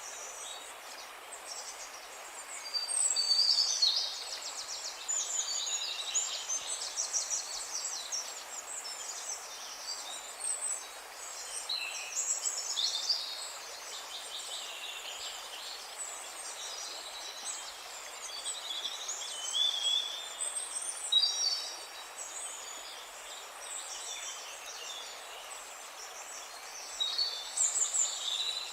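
Songbirds chirping and trilling in short bursts, strongest about three seconds in, around twenty seconds in, and near the end, over a steady soft outdoor hiss.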